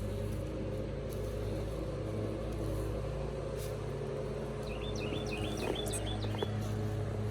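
A steady low motor hum, like an engine running, with a songbird's quick run of about eight short chirps a little past the middle.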